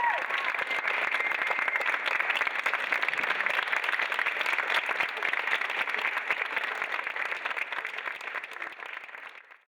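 Audience applauding, a dense steady clatter of many hands that dies away and cuts off just before the end.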